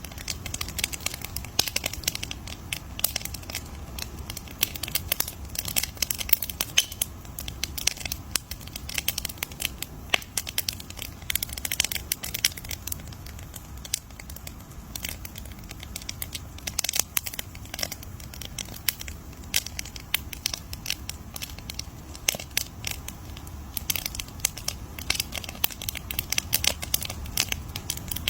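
Wood fire crackling: a dense, irregular stream of sharp pops and snaps over a low rumble of burning.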